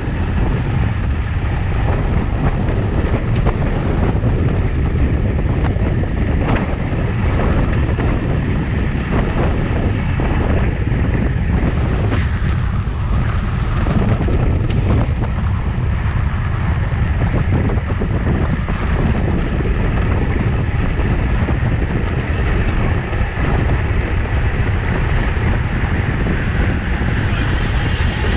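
Wind buffeting the microphone of a camera riding along on a racing bicycle at speed: a loud, steady rumble with faint ticks mixed in.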